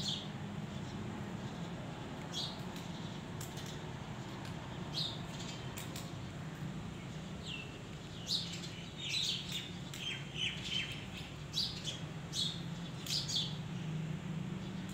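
Small birds chirping in short, high calls, some gliding down in pitch, coming more often in the second half, over a steady low hum.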